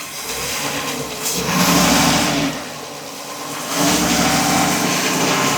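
Ford 6.2 L gasoline V8 running and revved up to about 1500 RPM twice, held, eased back between. The engine has a misfire on cylinder number 3.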